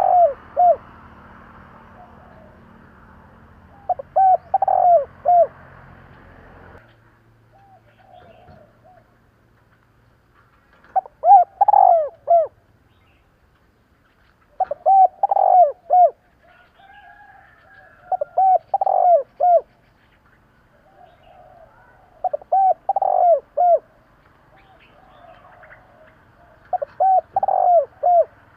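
Spotted dove (cu gáy) cooing: a phrase of several coos, repeated about every four seconds, with softer coos in between. It is the kind of call played to rouse cock doves. A low background hum stops suddenly about seven seconds in.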